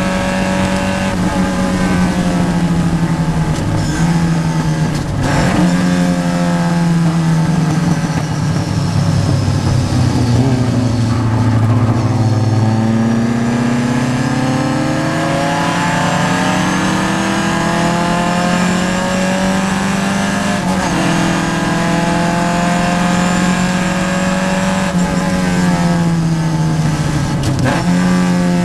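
Vintage Triumph race car's engine heard from inside the car, running hard at racing speed. The revs sag slowly about five seconds in, then climb steadily, with quick drops in pitch at gear changes about two-thirds of the way through and near the end.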